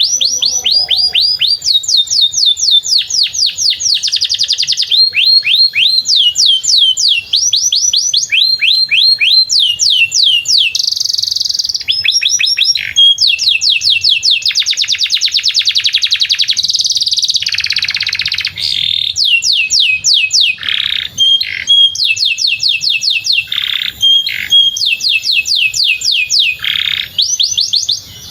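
Domestic canary singing a long, continuous song: runs of quickly repeated falling notes alternating with fast trills, broken only by brief pauses.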